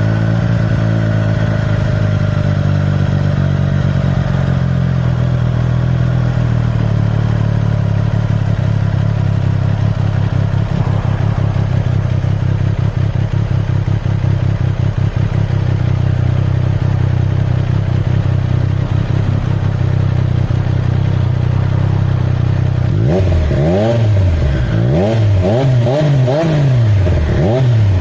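Triumph Street Triple R 765 cc inline-three motorcycle engine idling steadily through its exhaust. About five seconds from the end it is revved in several quick throttle blips, each rising and falling.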